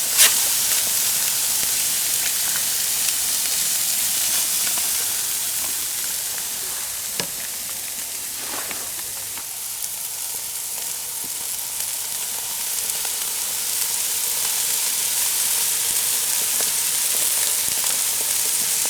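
Pieces of pork sizzling on a hot barbecue grill, a steady high hiss that eases a little midway, with a sharp click just after the start and another about seven seconds in.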